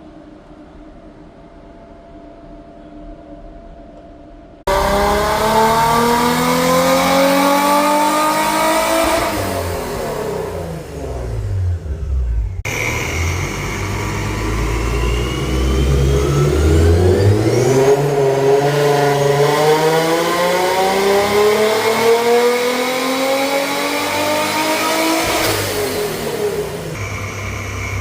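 Supercharged Nissan 350Z's 3.5-litre V6 on 4.5 psi of boost being run hard. After a few seconds of quieter steady running it comes in loud about five seconds in and climbs in pitch for about five seconds before dropping. After an abrupt change it makes a second, longer climb of about ten seconds and then falls away.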